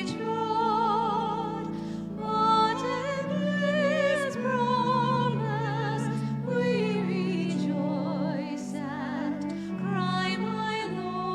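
Slow classical-style music: a solo voice with wide vibrato sings a melody over sustained accompaniment chords.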